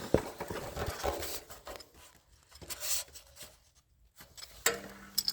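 Scattered light clicks and short rubbing and scraping noises from hands and tools working on a generator's carburetor and its wiring, with a brief quiet spell partway through and a sharper click near the end.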